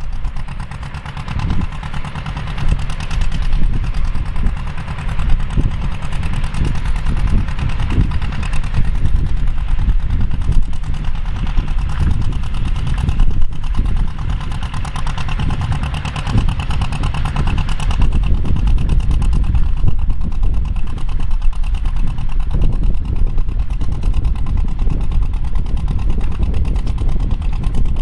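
Engine of vintage farm machinery running steadily with a low rumble.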